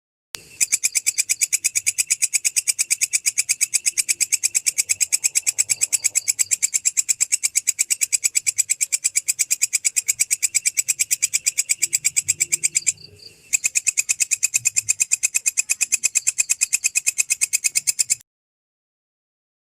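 Belalang kecek, a katydid, calling: a long, high-pitched train of rapid, evenly spaced pulses, with a short break about two-thirds of the way through.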